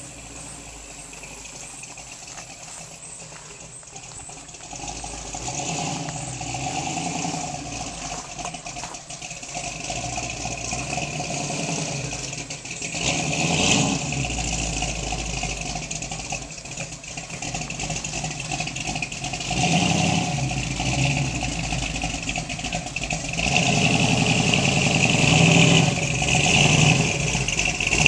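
Cammed 305 V8 in an Oldsmobile Cutlass running, growing louder from a few seconds in, with the revs rising and falling several times, most often near the end.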